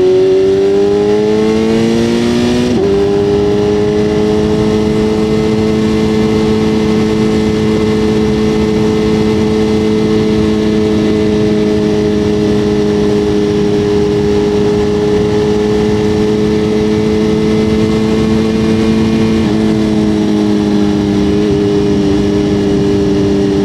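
BMW motorcycle engine accelerating with its pitch rising, then dropping suddenly at an upshift about three seconds in. It then runs steadily at cruising speed, and its note falls a little near the end as it eases off.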